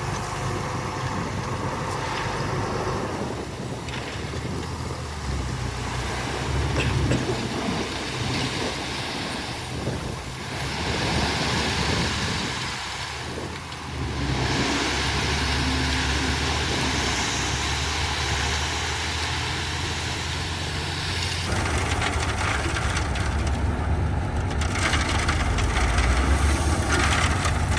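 Heavy diesel engines of dump trucks and a Komatsu D41P bulldozer working gravel: a steady low engine drone with stretches of louder rushing noise, and a sudden change in the sound about two-thirds of the way through.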